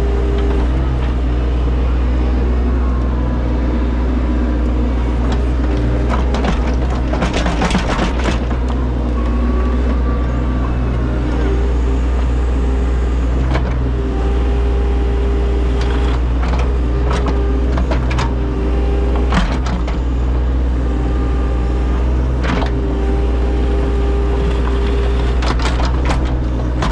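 Diesel engine of a small excavating machine running steadily under load, with a whining tone that comes and goes as the hydraulics work. Clusters of knocks and scrapes, heaviest around seven to eight seconds in and again later, as the bucket digs into dirt and rock.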